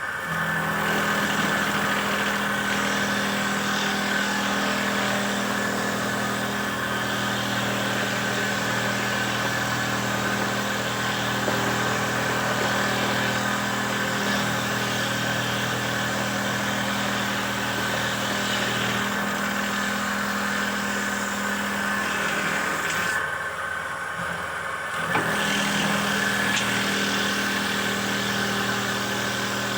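Homemade wooden dowel-making machine running steadily: a motor hum with a high whine over a hiss. About 23 seconds in the hum drops off, and it picks up again about two seconds later.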